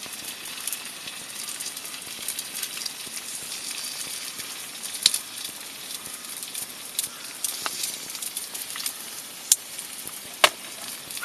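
Wood fire crackling and hissing, with a few sharp pops.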